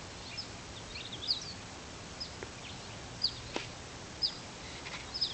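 Small birds chirping: short, high notes that slide downward, about one a second, over a steady faint hiss of background noise.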